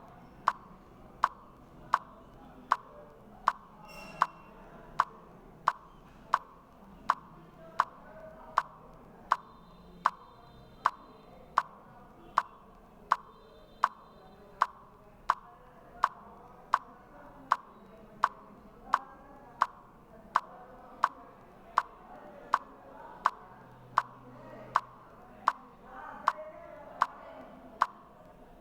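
Steady, evenly spaced sharp clicks, about four every three seconds, over a faint background haze.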